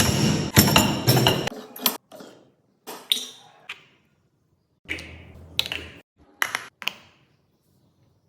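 Irregular sharp taps and clicks of small hard parts being handled while making photo fridge magnets, in several short groups with dead silent gaps between them.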